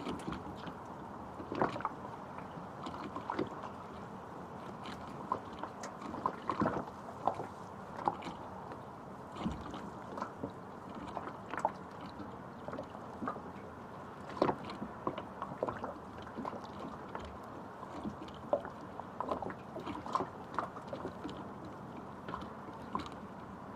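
Water bubbling and gurgling, with many small irregular pops over a steady wash.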